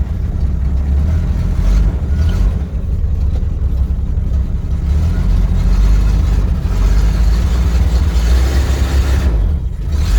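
A 1979 Jeep J10's AMC 258 inline-six running and being revved as it tries to pull away. It gets louder in the second half and eases near the end. The automatic transmission is slipping, which the driver puts down to it being out of fluid.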